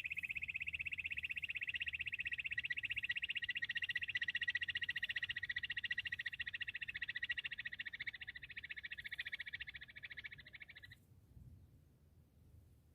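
Bush quail call: a long, fast, even high-pitched trill that cuts off suddenly near the end.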